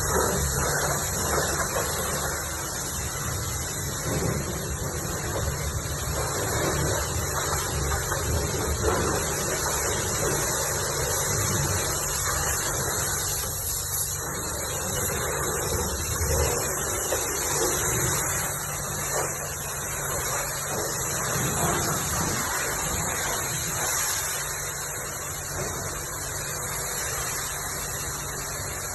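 High-pressure wash gun at a self-serve car wash spraying water over a car: a steady hiss of spray that rises and falls as the jet moves, with a low steady hum underneath.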